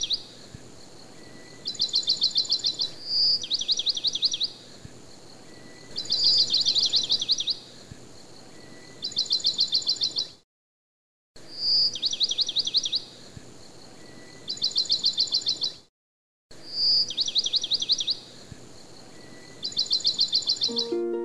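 A bird calling over and over: a bright high note, then a fast run of about ten quick chipping notes, each phrase repeating every two to three seconds. The audio drops out completely twice for under a second.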